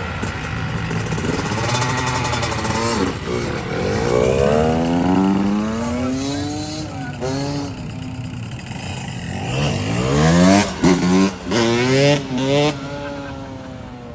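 Yamaha YZ85 85cc two-stroke dirt bike engine revving up and down repeatedly, with several quick throttle blips about three-quarters of the way through before the sound falls away near the end.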